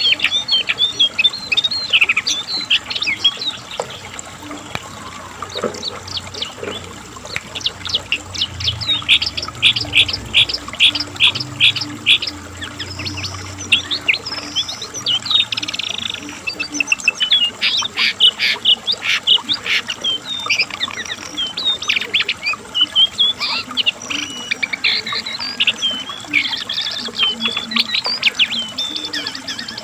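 A cingcoang (jongkangan coklat), a small shortwing, singing a long, fast, varied song of high chirps and trills, with runs of quickly repeated sharp notes.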